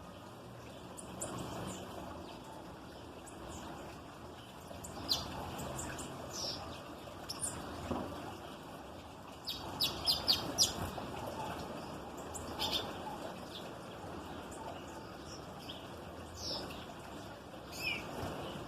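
Small songbirds chirping: short, sharp, high calls scattered through, with a quick run of five or six notes about ten seconds in, over a steady background hiss.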